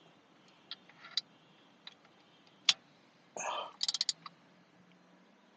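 Scattered sharp metal clicks and clinks of hand tools being worked, with a short scrape about three and a half seconds in and a quick run of about half a dozen clicks just after it.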